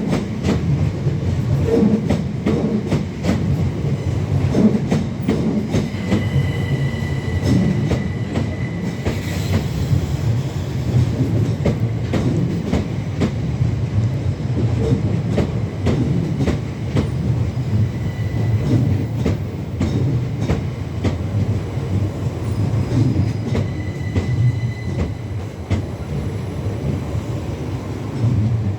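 Electric multiple-unit train running along the platform: a steady rumble with wheels clicking over rail joints, and a thin, high wheel squeal three times, about six, eighteen and twenty-four seconds in.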